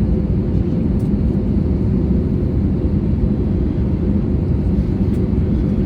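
Steady, loud rumble of an Airbus A320neo's engines and airflow heard from inside the passenger cabin, with a faint steady tone over it.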